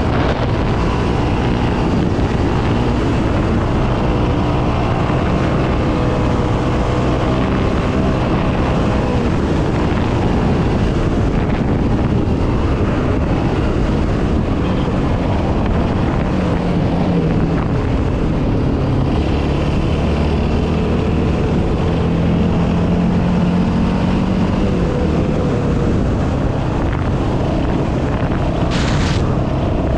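Yamaha Raptor 700R quad's single-cylinder four-stroke engine running under way, its pitch rising and falling with the throttle, with wind on the microphone. A brief hiss comes near the end.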